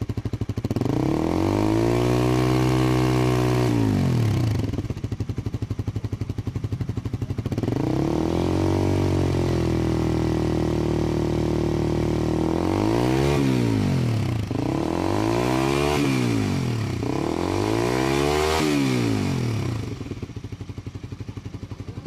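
Honda CB150R's single-cylinder four-stroke engine breathing through a NOB1 Neo SS aftermarket exhaust with a dB killer, revved while standing. It gives one rev about a second in, drops back to idle, then a longer held rev, three quick blips and a return to idle near the end.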